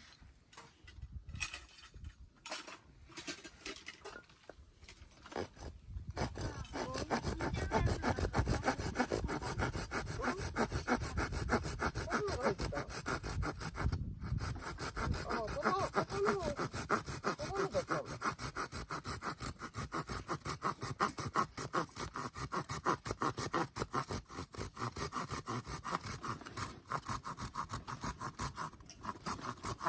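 Silky Pocketboy folding saw with coarse teeth cutting through a branch. A few scattered strokes at first, then steady, fast back-and-forth sawing from about six seconds in, with one brief pause around halfway.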